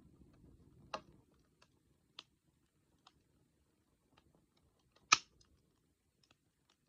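Wood fire crackling: scattered sharp pops and ticks from the burning wood, the loudest pop about five seconds in.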